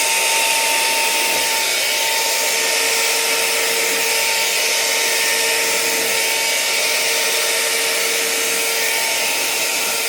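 Hair dryer running steadily on high, a constant rushing blow with a steady motor whine, blowing out wet poured paint across a canvas.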